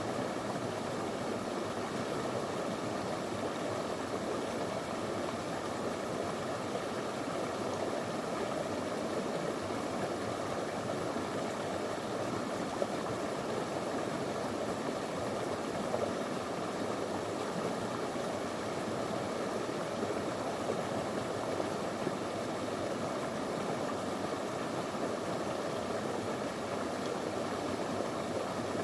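Small, shallow stream running steadily over stones, a continuous even rush of water.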